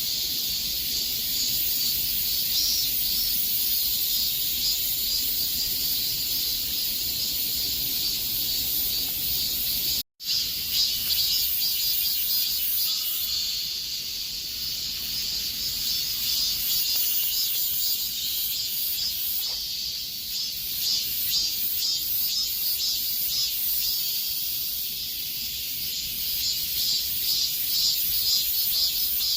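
Chorus of cicadas buzzing steadily at a high pitch, taking on a rapid pulsing quality in the second half. The sound cuts out for a split second about ten seconds in.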